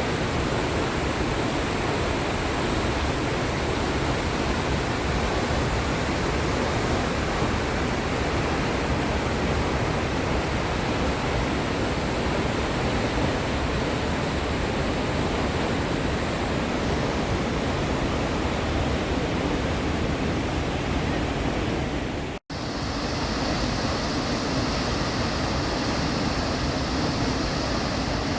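Steady roar of rushing water. About 22 seconds in it cuts off abruptly and resumes as a similar roar with a slightly different tone.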